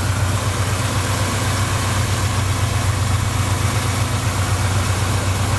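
Rebuilt Chevrolet 350 small-block V8 with a Holley carburetor idling steadily, a deep even rumble.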